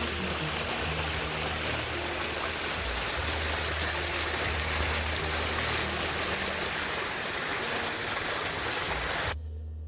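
Rushing stream water, a steady full hiss that cuts off suddenly near the end.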